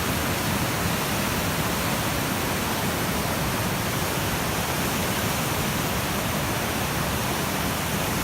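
The Rakaia River in flood, its fast, high water roaring in a steady rush. The river is swollen after days of heavy rain.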